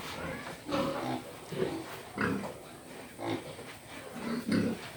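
A pig grunting repeatedly: about six short grunts, roughly one a second.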